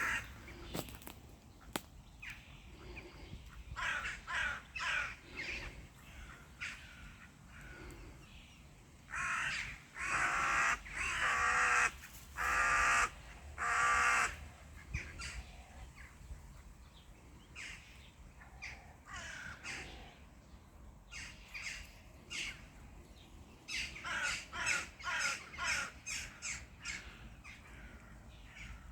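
Birds calling: a few calls, then a group of loud, harsh calls about a third of the way in, and a quicker run of short calls near the end.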